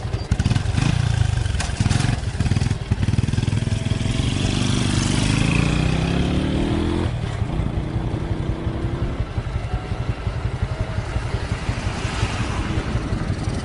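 A motorcycle engine revving, its pitch climbing for a few seconds before it drops away about halfway through, over a heavy, gusting rumble of strong wind on the microphone.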